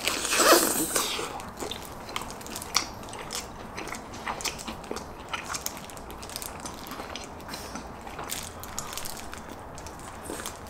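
A person biting into sauce-coated fried chicken with one loud crunchy bite about at the start, then chewing it with many small crunches and mouth clicks.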